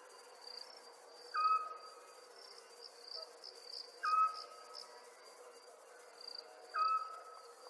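Night chorus of crickets chirring steadily with pulsed chirps. Three times, about every two and a half seconds, a short whistled note that drops and then holds stands out as the loudest sound.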